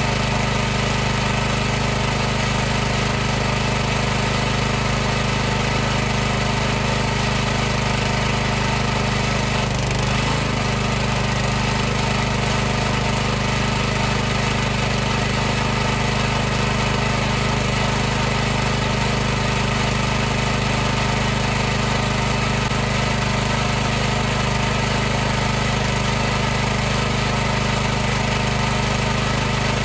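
High-pressure washer's motor and pump running steadily with a constant hum, with a brief wobble in pitch about ten seconds in.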